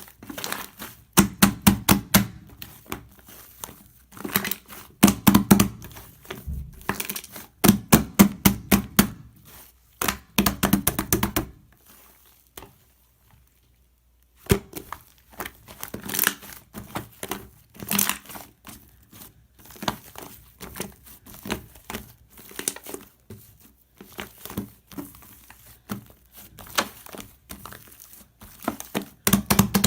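Fluffy shaving-foam slime squeezed and worked by hand, in bursts of dense crackling and popping, with a pause of about two seconds partway through.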